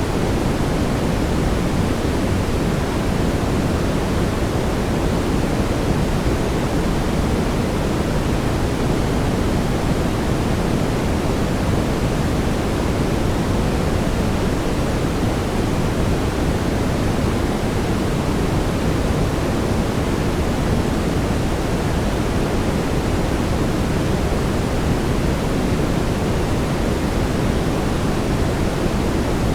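Steady brown noise: an even, unbroken rushing hiss weighted toward the low end, with no changes.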